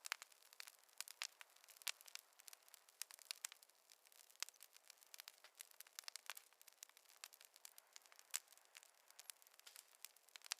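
Wood fire crackling: a quiet, irregular run of small sharp pops and snaps over a soft hiss.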